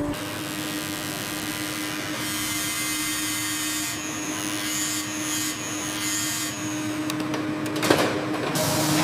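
Machinery running with a steady hum and hiss, a high whine for a couple of seconds in the middle, and a sharp click near the end.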